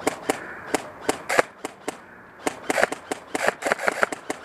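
Airsoft guns firing: a string of sharp, irregularly spaced shots, coming faster and closer together in the second half.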